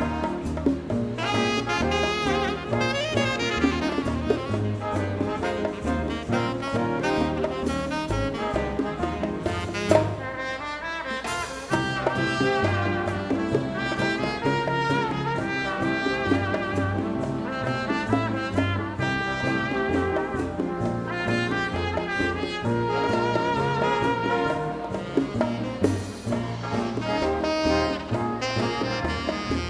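Live dance band playing a Latin-style number: trumpets, trombones and saxophones over a rhythm section with a steady bass pattern. Around ten seconds in the bass drops out briefly.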